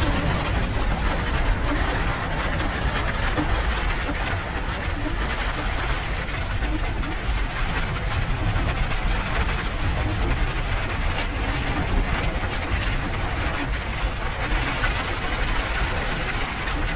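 Steady rain noise, an even hiss over a constant low rumble.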